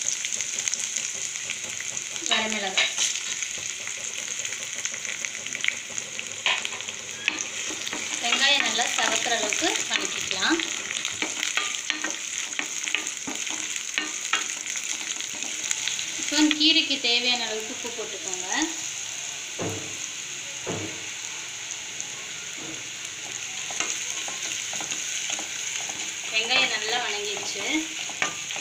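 Sliced shallots and dried red chillies sizzling in hot oil in a stainless steel kadai, stirred with a spatula that scrapes and clicks against the pan. A few short wavering pitched sounds rise over the steady sizzle.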